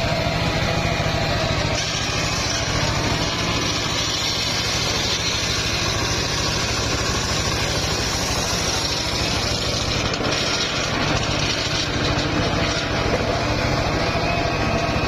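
Engine of a homemade circular sawmill running steadily, with a brighter hiss coming in about two seconds in and easing off near the end as the saw blade cuts through an old mahogany log.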